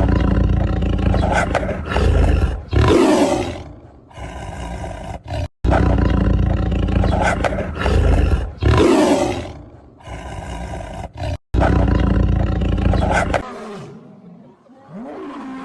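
A big cat roaring: a loud, deep roar sound effect, repeated about three times with abrupt cuts between the repeats.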